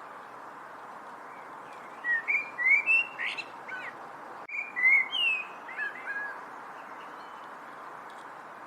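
A songbird singing two short bursts of quick, gliding, whistled notes, the first about two seconds in and the second near the middle, over a steady background hiss.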